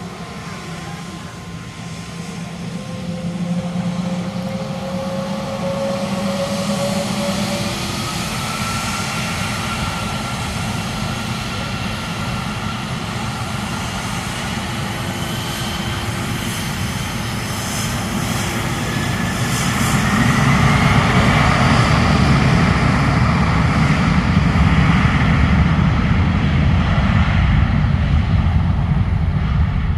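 Gulfstream business jet's twin turbofan engines running, a steady noise with whining tones that glide upward, growing louder and jumping in loudness about twenty seconds in.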